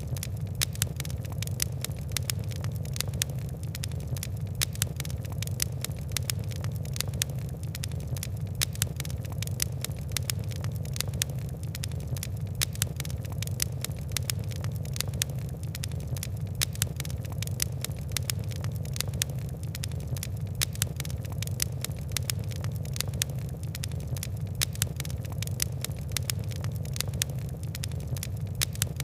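Fire crackling steadily, with many sharp, irregular pops and ticks, several a second, over a constant low rumble.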